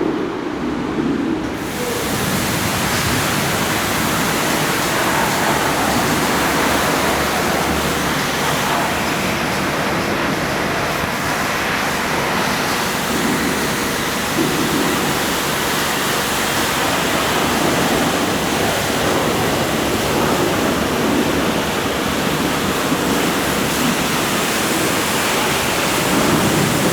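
A water jet from a washer wand spraying a car's engine bay: a steady, loud hiss that fills in about a second and a half in and then holds even.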